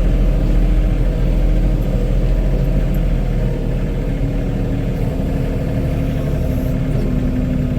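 Compact tractor's diesel engine running steadily.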